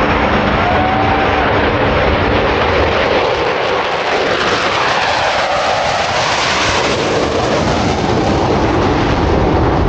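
Loud, steady jet noise from the Blue Angels' F/A-18 Super Hornets flying past in formation. The pitch of the noise sweeps through the middle as the jets go by.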